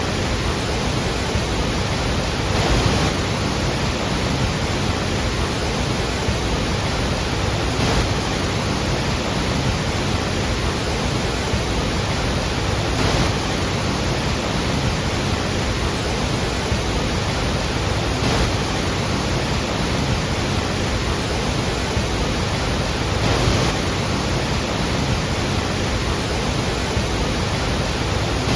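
Iguazu Falls: a loud, steady rush of falling water.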